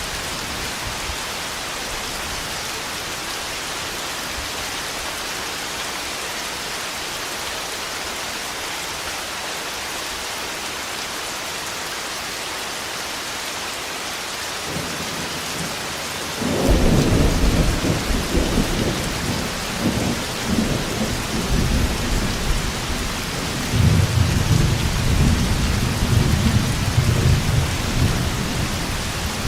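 Steady heavy rain with loud rolling thunder: a sharp clap about halfway through, then rumbling that swells again a few seconds later and fades near the end.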